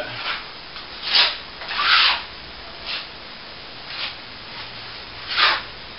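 Hand tool rubbing across plaster in about five short, irregular strokes, the loudest about two seconds in.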